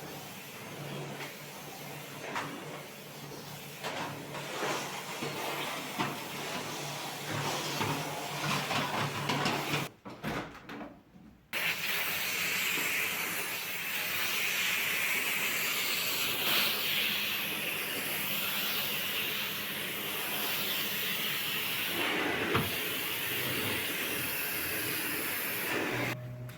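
Light knocks and clatter for about ten seconds, then after a brief drop a steady, loud hiss that runs on.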